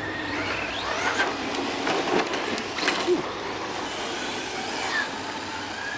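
Electric RC cars running on a dirt track: motor whine rising and falling in pitch as they speed up and slow down, with tyre noise and a few short knocks.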